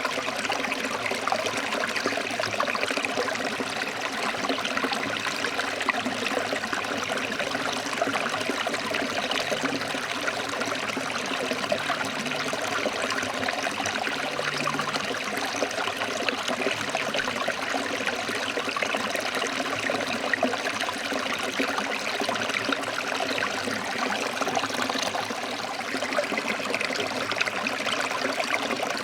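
A forest stream flowing over rocks, a steady, even rush of water with constant splashing and trickling.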